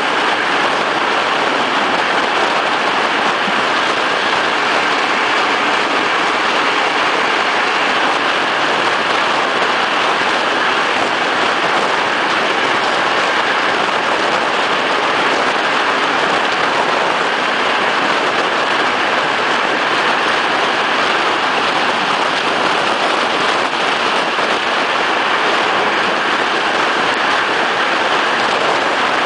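Steady rushing noise of a regional passenger train running at speed, heard from an open window, with wind blowing across the microphone.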